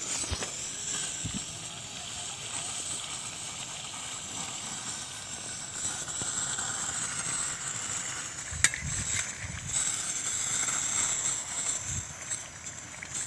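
Chicken pieces sizzling in oil and gravy in a karahi wok as they are stirred with a metal ladle: a steady hiss, with a sharp click about two-thirds of the way in.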